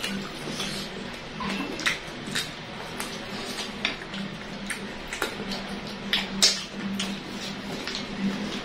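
Close-up eating sounds of fried chicken and rice being chewed, with irregular crunches, mouth clicks and smacks, over a steady low hum.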